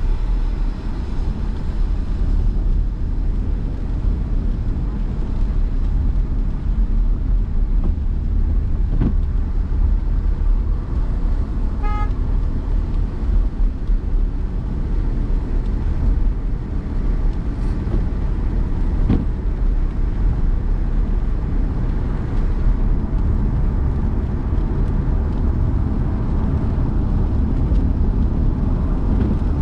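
Car driving through city traffic: a steady low rumble of engine and road noise, a brief horn toot about twelve seconds in, and a couple of short knocks.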